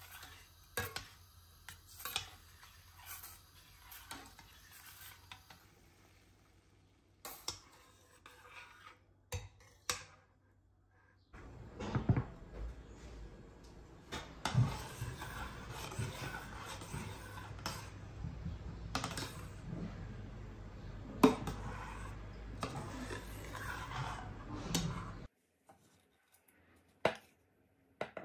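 Kitchen utensils and dishes clinking, knocking and scraping. From about eleven seconds in, a continuous low noise runs under the clatter and stops suddenly about three seconds before the end.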